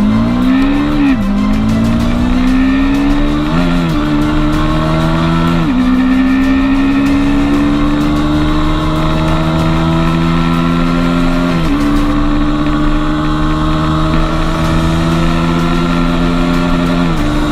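A 250cc sport motorcycle engine accelerating hard through the gears. The pitch climbs steadily in each gear and drops sharply at each of about five upshifts, and each gear lasts longer than the one before.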